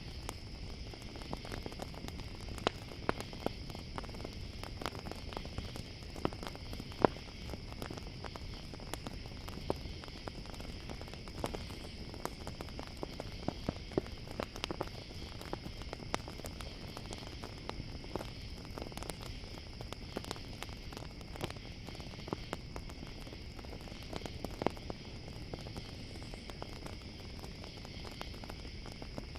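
Campfire crackling, with scattered sharp pops, under a steady high chorus of crickets.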